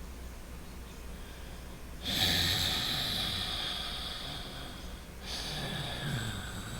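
Noisy, deliberate breathing through the nose: a first breath starts about two seconds in and lasts about three seconds, slowly fading, and after a brief break a second breath follows.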